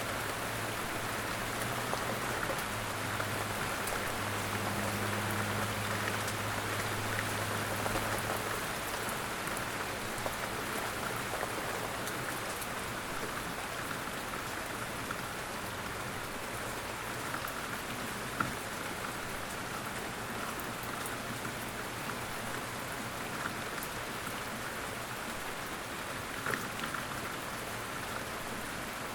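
Steady light rain falling in woodland, an even hiss with scattered nearby drops ticking on surfaces. A faint low hum lies under it for the first eight seconds or so.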